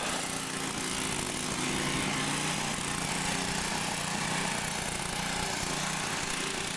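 An engine running steadily with an even hiss over it.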